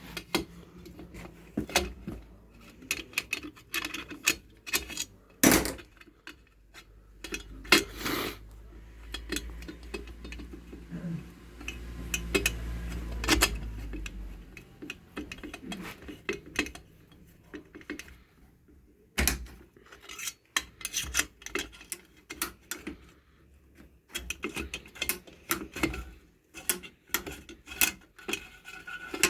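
Irregular metal clinks and knocks of hand tools and small steel parts being handled while a Stihl MS 361 chainsaw is taken apart and reassembled. A low rumble runs for several seconds midway.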